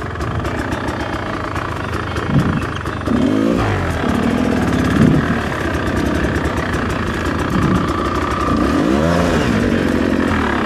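Rieju MR300 two-stroke enduro bike's engine revving up and down several times as the rider picks his way over rocks, the revs rising and dropping in short bursts of throttle.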